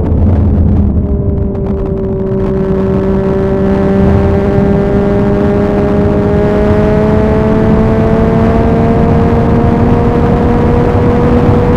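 Yamaha MT-09's three-cylinder engine running through an Akrapovic carbon exhaust under way. The revs dip about a second in, then climb slowly and evenly, over a steady rush of wind and road noise.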